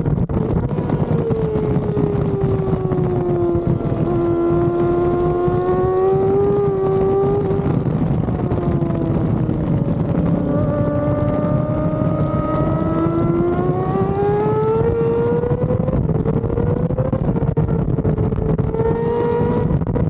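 Race motorcycle engine at speed on track, with wind rushing over the onboard microphone. The engine note drops in the first few seconds, holds low while the bike leans through a corner, then climbs steadily as it accelerates out, stepping in pitch near the end.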